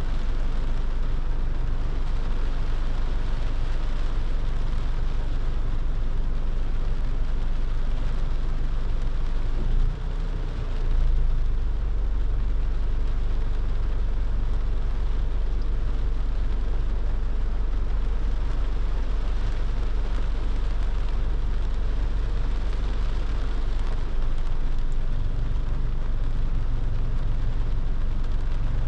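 Car driving on a wet road in the rain: a steady low rumble of engine and tyres under a hiss of rain and road spray, with a brief dip in level about ten seconds in.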